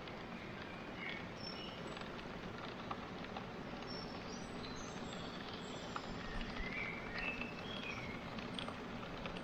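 Small birds chirping in short calls over a steady outdoor background hiss, with a few faint clicks.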